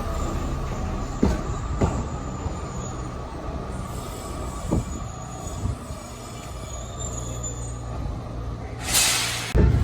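Yokkaichi Asunarou Railway 260-series narrow-gauge train running, its wheels squealing with a steady tone on the rails and clacking sharply over rail joints a few times. A brief hiss sounds about nine seconds in.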